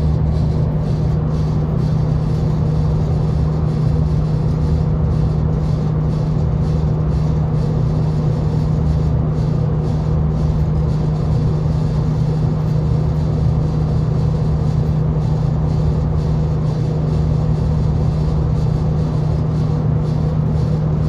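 Steady low drone and rumble inside a V/Line diesel passenger train carriage as the train runs along, an even hum holding one pitch throughout.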